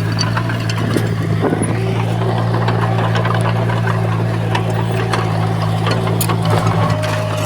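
Heavy construction-machine diesel engine running at a steady speed, with scattered short clicks and clanks.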